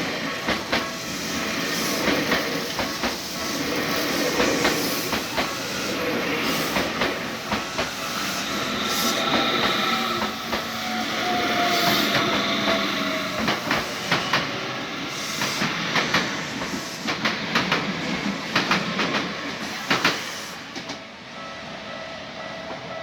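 A Tokyu Oimachi Line train passing over a level crossing, its wheels clacking over the rail joints in a long run of clicks over a steady rumble that falls away near the end. The crossing's warning bell keeps ringing underneath, and a whine slides down in pitch around the middle.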